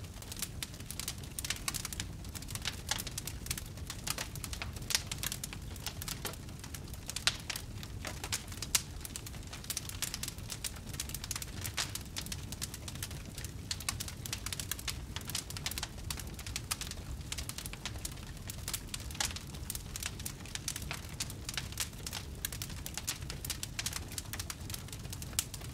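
Wood fire in a fireplace crackling, with frequent small irregular pops and snaps over a steady low rumble of the flames, and a few louder pops.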